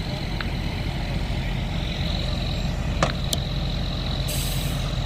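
Steady low rumble of idling vehicle engines, with a few light clicks and a short hiss about four seconds in.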